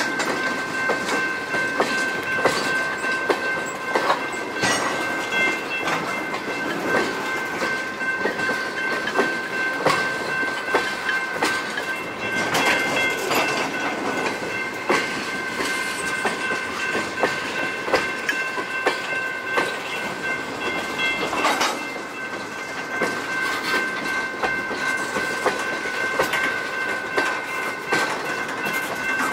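Freight train of tank cars rolling past, wheels clicking and clanking over the rail joints at irregular intervals. A steady high-pitched squeal runs underneath throughout.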